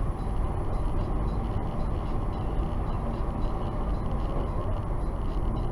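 Steady road and engine noise of a moving car, picked up by a dashcam's microphone inside the cabin.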